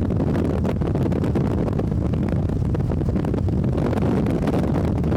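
Steady low rumble of a vehicle driving, road and engine noise with some wind noise.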